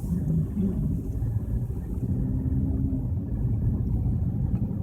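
Steady low rumble of a car cruising on a freeway, heard from inside the cabin: road and engine noise.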